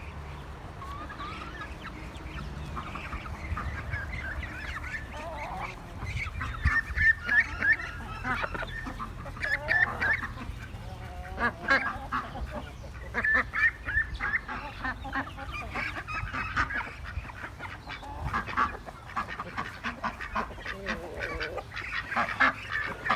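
Domestic ducks quacking in quick runs of short, honking calls, getting busier about six seconds in.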